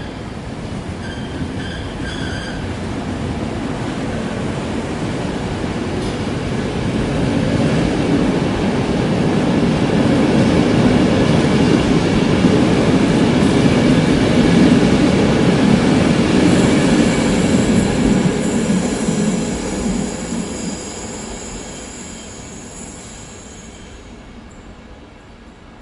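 A train passing by: the rumble of the wheels on the rails builds steadily for about fourteen seconds, then fades away. A high squeal from the wheels joins it as it goes past.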